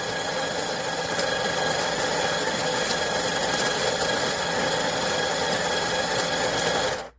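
Ollygrin electric conical burr coffee grinder running steadily with a whine, then cutting off abruptly near the end.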